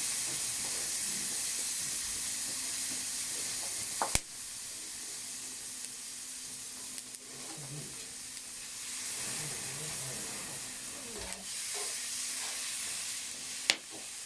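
Beef fillet searing and sizzling steadily over a very hot open fire. Two sharp clicks cut through it, one about four seconds in and a louder one near the end.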